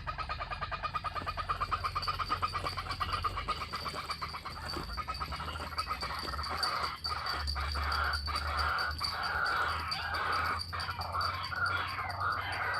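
White-breasted waterhen calling: a fast, even run of repeated notes that becomes more broken and varied after about six seconds.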